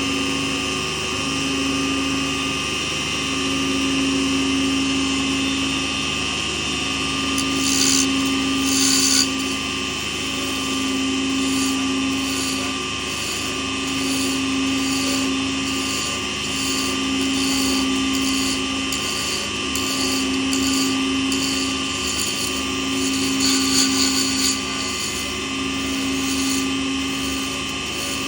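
Small lathe running steadily, with a low hum that swells and fades about once a second under a constant high whine. Twice, about a third of the way in and again near the end, a brief louder hiss rises over it.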